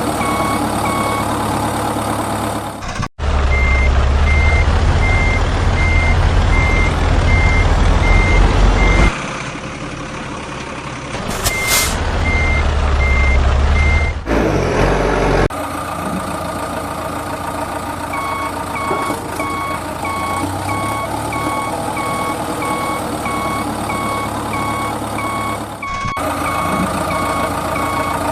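A truck's reversing alarm beeping steadily, about two beeps a second, over a running diesel engine. The sound comes in edited segments that cut in and out abruptly, with a heavier engine rumble in the first half and a short hiss near the middle.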